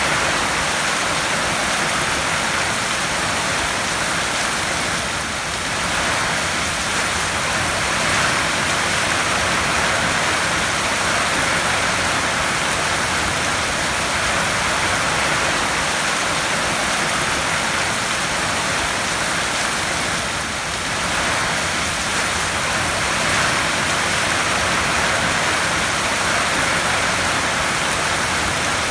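Heavy rain drumming steadily on a tin roof, a dense, even hiss of drops.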